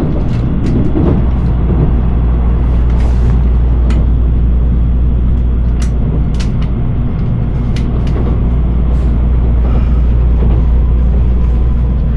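Steady low rumble of a Shinkansen train arriving at Tokyo Station, with scattered light clicks and knocks.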